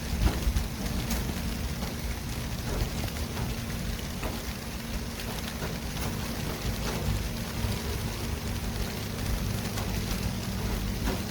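Steady city traffic noise: a constant low rumble with a hiss of tyres over it and scattered small clicks.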